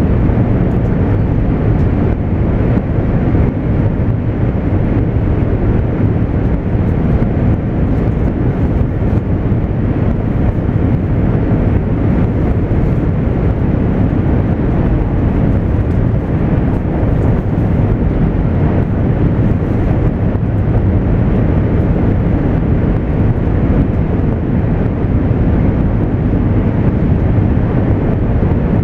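Running noise of a 200 series Shinkansen train heard inside the passenger cabin: a steady, even rumble with no change in pitch or level.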